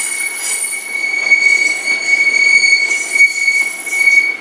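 Class 150 diesel unit's wheels squealing against the rails on a tight curve as it pulls in. It is a loud, steady high-pitched screech with a second, higher tone above it.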